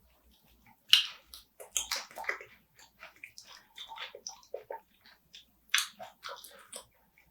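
Wet, close-up eating sounds of spicy marinated raw crab: irregular smacking, sucking and crackling of the shell and flesh, with a sharper snap about a second in and another near six seconds.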